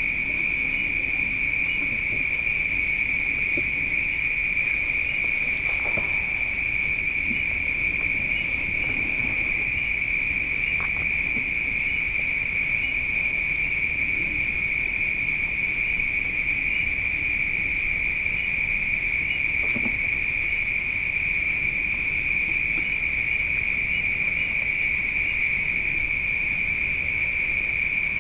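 Night insects, crickets most likely, trilling in a steady, unbroken, high-pitched chorus at two pitches.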